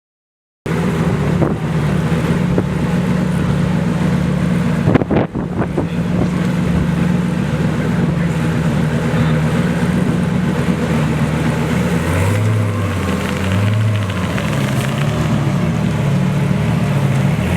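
Twin-turbo Lamborghini Gallardo V10 running at a steady idle, with wind buffeting the microphone and a brief knock about five seconds in. From about twelve seconds on, the engine note swells up and down again and again in light revs.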